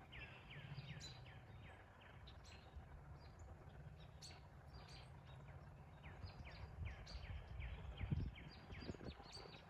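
Small birds chirping faintly: a long run of short, falling chirps, a few a second, over a low background rumble.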